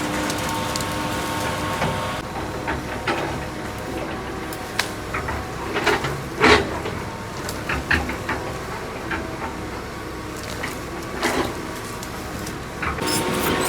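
Excavator's diesel engine running steadily, with scattered sharp clanks and knocks of metal.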